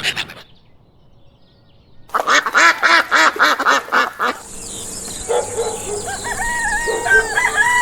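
Ducks quacking in a rapid series of about four calls a second, starting about two seconds in after a brief lull. Near the middle this gives way to a steady hiss with thin, high whistled calls.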